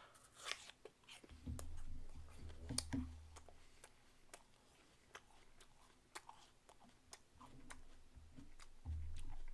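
A person chewing a freshly bitten apple close to the microphone: many small crisp crunches and wet clicks of the mouth, with low muffled rumbles about a second in and again near the end.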